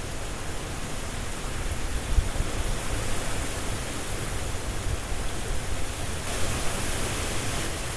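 Strong wind rushing through tree leaves: a steady hiss over a low rumble, swelling a little about six seconds in.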